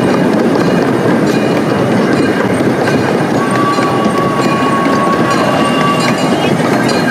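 A ride-on train running, heard from inside its open-sided passenger car: a steady rolling rumble and rattle. A thin, steady squeal joins for about three seconds in the middle.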